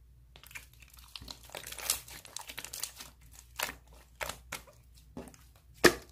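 Slime being worked by hand, giving irregular crinkly crackling and snapping, with two loud sharp pops near the end.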